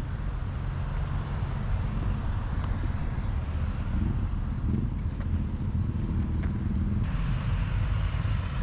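Steady low rumble of motor vehicle engines running outdoors, with a broader wash of noise rising about seven seconds in.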